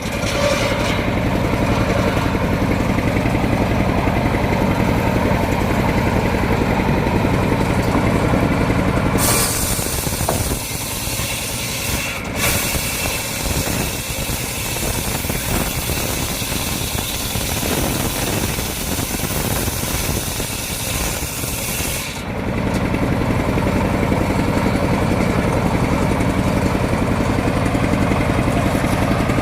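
The engine of a mobile circular sawmill runs steadily. From about nine seconds in to about twenty-two seconds, a loud hissing rush covers it and the engine note turns less even, then the steady running returns.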